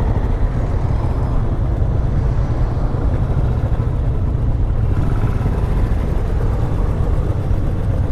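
Motorcycle engines idling in a steady low rumble as riders wait lined up in lanes.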